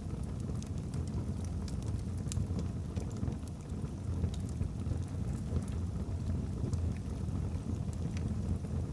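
Wood fire burning in a fireplace: a steady low rumble of flame, with irregular sharp crackles and small pops from the logs scattered throughout.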